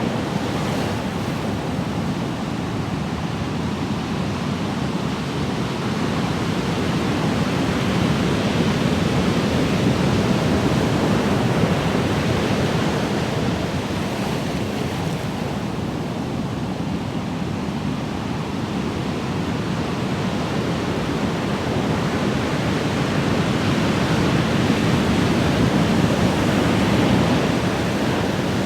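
Ocean surf: a continuous wash of breaking waves that swells and eases slowly, with two louder surges.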